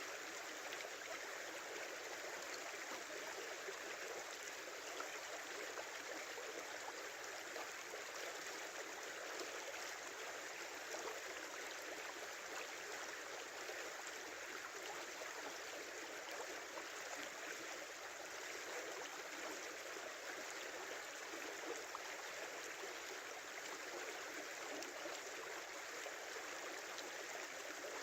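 Small river flowing over its bed, a steady babbling rush of water with no breaks.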